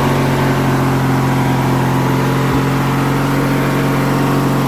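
1997 MTD Yard Machines riding lawn mower's engine running steadily at an even speed, just after starting.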